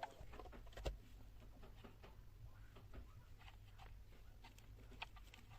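Near silence: faint room tone with a low hum and a few light scattered clicks, the clearest about a second in.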